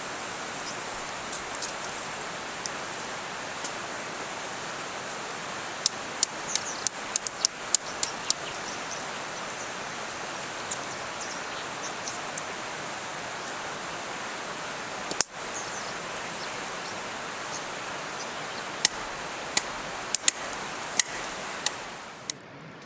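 Wood campfire crackling: sharp pops come in clusters about a quarter of the way in and again near the end, over a steady rushing hiss. The level falls away just before the end.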